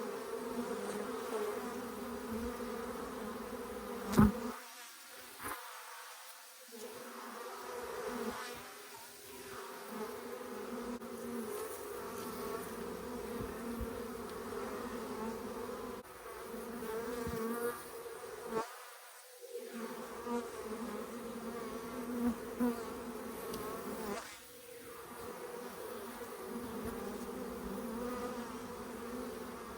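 A swarm of honeybees buzzing in a steady, dense hum from many bees in flight. A single sharp knock comes about four seconds in, and the hum briefly dips in level a few times.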